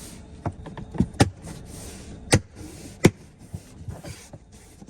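Plastic clips of a Tesla Model 3/Y dashboard speaker grill snapping into place as the grill is pushed down by hand: a series of sharp clicks, the loudest four between about one and three seconds in.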